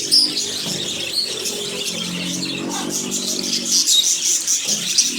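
A flock of small birds chirping and chattering continuously, many calls overlapping.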